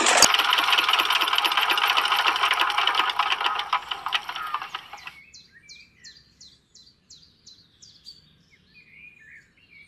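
Small motor of a miniature model tractor running with a rapid clatter as it drives a belt-driven toy water pump, with a sharp click just after the start. It fades and stops about halfway through. After that a bird chirps in a quick run of short high notes.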